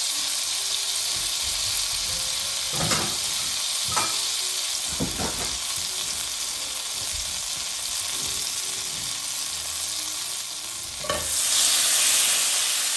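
Butter and oil sizzling in a hot cast iron brazier, a steady frying hiss with a few light utensil knocks against the pan. About eleven seconds in, the sizzle turns louder.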